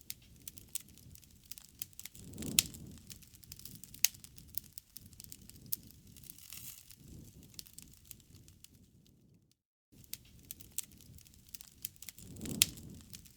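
Wood fire crackling: sharp pops and snaps over a low rumble of flames. It drops out for a moment about ten seconds in.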